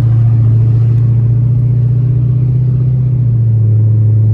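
Chrysler 300's Hemi V8 running under way, its exhaust giving a loud, steady low drone.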